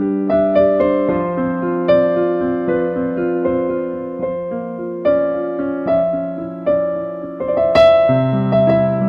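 Solo keyboard music: slow, sustained piano chords with a melody moving over them. There is one brief click about eight seconds in.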